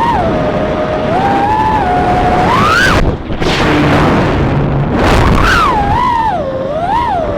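Brushless motors of a 3-inch FPV quadcopter whining in flight, the pitch rising and falling with throttle. The whine drops out about three seconds in and comes back about two seconds later with quick swoops up and down.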